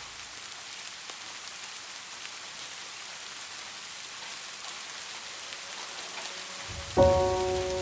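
Steady rain falling, an even hiss of drops on a surface. About seven seconds in, a piano chord is struck and rings on.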